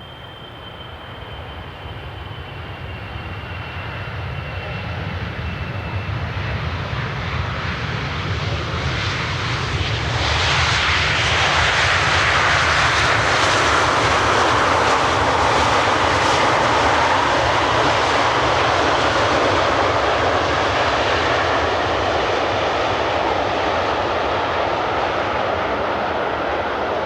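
Jet airliner passing close by, its engine noise building over about ten seconds to a loud roar, then slowly easing off. A high engine whine falls in pitch during the first few seconds.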